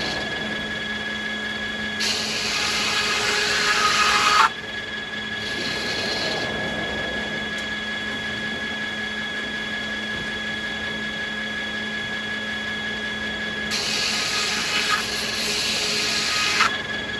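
Sawmill machinery running with a steady hum while a saw makes two cuts through American beech: each cut is a hiss that builds over about three seconds and stops abruptly, the first about two seconds in and the second near the end.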